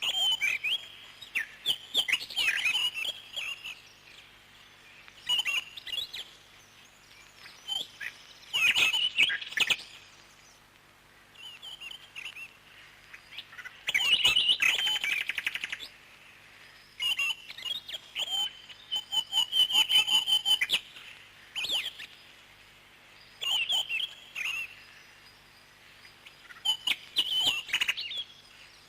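Parrots chirping in short bursts of quick, high chirps, with brief pauses between bursts and one longer rapid trill about halfway through.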